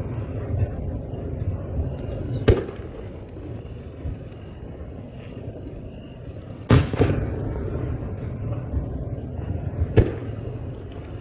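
Aerial firework shells bursting overhead: three sharp booms, about two and a half, seven and ten seconds in. The middle boom trails off in a long rolling echo.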